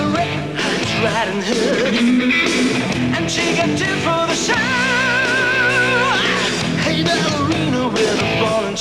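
Rock song playing: a full band with electric guitar, and a long note held with wide vibrato for a second and a half in the middle.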